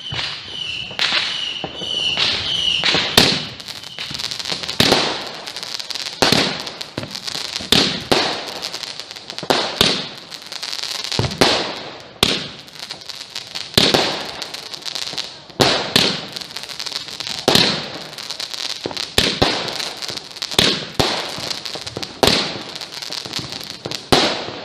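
Consumer multi-shot firework cake firing its shots one after another: a sharp report about every one and a half to two seconds, with crackling between, and a brief repeated high whistle-like tone in the first few seconds.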